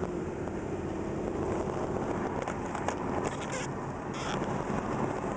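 Steady road and engine noise heard inside a moving car's cabin, with two short hisses about three and a half and four seconds in.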